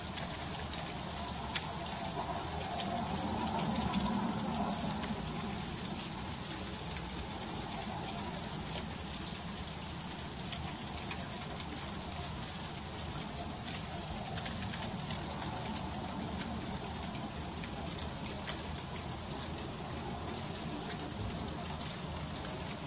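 Freezing rain falling steadily, a dense patter of fine ticks as icy drops strike surfaces. A faint low rumble swells and fades a few seconds in.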